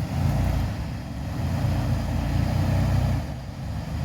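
Dodge Ram half-ton's 318 V8 rumbling as the truck is driven, the engine note swelling and easing off.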